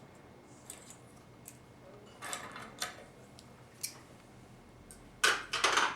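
Metal hand tools being handled on a workbench: scattered light clicks and taps, then a louder rattling clatter of metal near the end.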